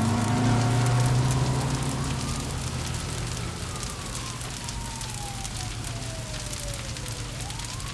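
A siren wailing, its pitch sliding slowly down and then rising again near the end, over a steady crackling hiss like rain or fire. A low drone fades out in the first couple of seconds.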